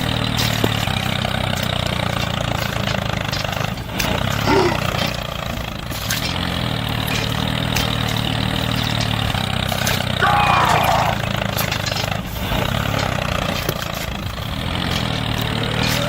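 An engine running steadily at an even speed. A few short, bending, high-pitched voice-like sounds come over it about four seconds in, around ten seconds in and at the very end.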